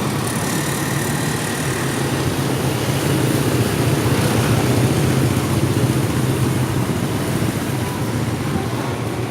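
Steady city street traffic: engines and road noise from passing motor vehicles, swelling a little mid-way.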